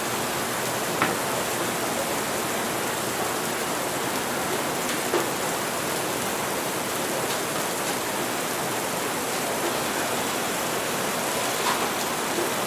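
Steady rain falling, with a few faint short clinks about a second in, near the middle and near the end.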